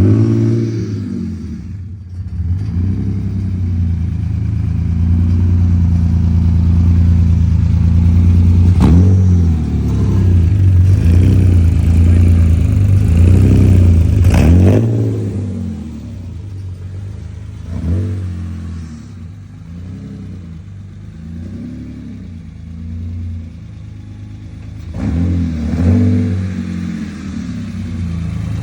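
BMW E9 3.0 CSi's fuel-injected straight-six running through a side-exit exhaust, revved repeatedly: held at higher revs for several seconds, then settling lower with a few quick blips of the throttle.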